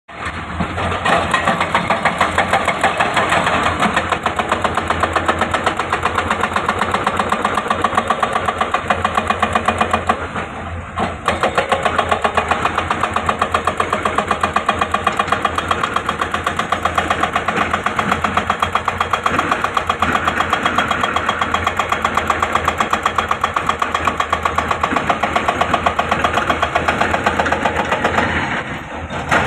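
Excavator's diesel engine running steadily with a fast, even pulsing beat, dipping briefly about ten seconds in and again near the end.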